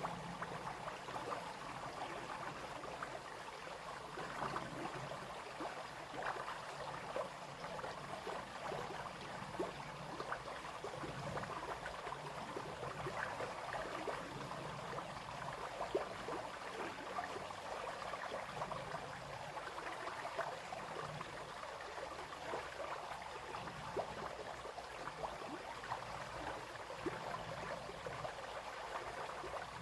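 Small brook flowing and babbling over stones, a steady wash of water with many quick splashes and gurgles.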